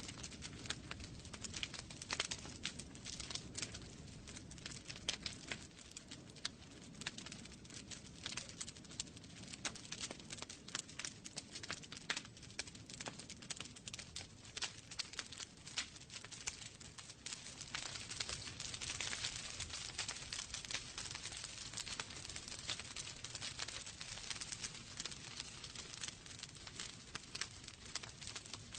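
Wood fire burning in a fireplace, logs crackling and popping continuously over a soft rumble of the flames, with a stretch of louder hissing about two-thirds of the way through.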